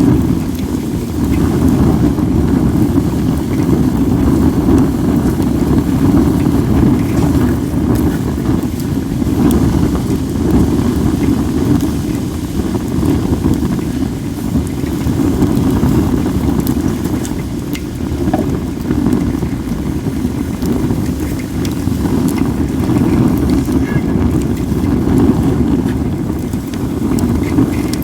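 Steady low wind rumble on the microphone over a wood fire of acacia and other logs, with faint crackles and pops now and then.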